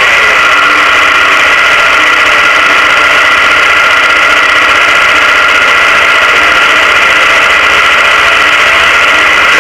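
A 400 cubic-inch Chevrolet V8 in a drag car idling steadily and loudly, heard from inside the cockpit.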